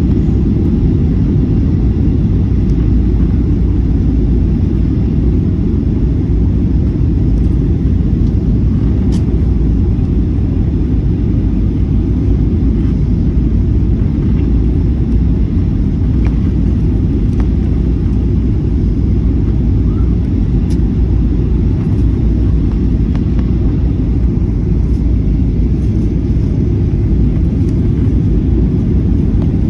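Steady loud rumble of an airliner cabin: jet engines and airflow heard from inside, deep and even throughout.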